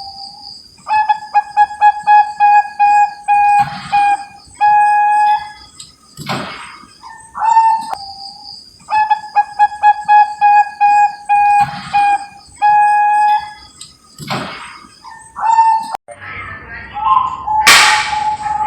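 Perkutut bangkok (zebra dove) cooing: two bouts of quick, repeated short cooing notes on one pitch, each lasting a few seconds, with a few knocks in between.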